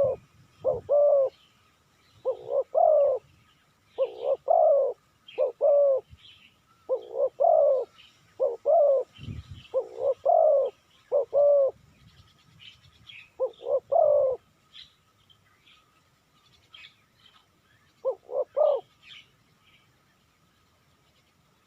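Spotted dove cooing: short phrases of two or three soft coos, repeated every second or so. The cooing pauses about two-thirds of the way through, with one more phrase a few seconds later. Small birds chirp faintly in the background.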